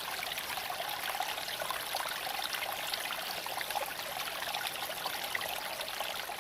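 Steady hissing road and wind noise while driving a Tesla Cybertruck, even throughout with little deep rumble.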